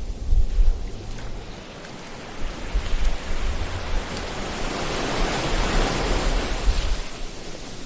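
Ocean waves washing in, with a deep rumble underneath, one wave swelling and breaking about five seconds in.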